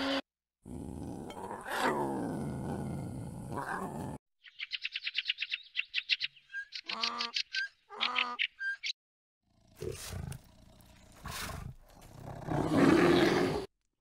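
A string of separate animal calls: first a red deer's deep roar with a dipping pitch, then a donkey braying, fast wheezing pulses followed by two pitched calls, then further louder calls near the end.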